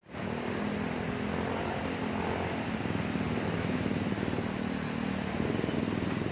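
A vehicle engine running steadily over a continuous rushing noise.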